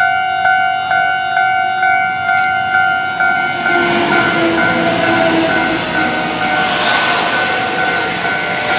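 Level-crossing warning bell ringing in a steady two-tone ding about twice a second. About three and a half seconds in, a Taiwan Railway EMU500 electric commuter train starts to pass over the crossing, and its rolling rumble grows and covers the bell.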